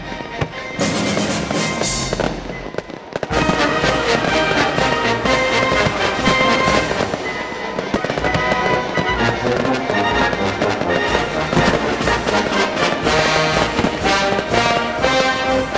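Fireworks bursting in quick succession during a pyromusical display: aerial shells and comets going off over music, the reports growing dense from about three seconds in.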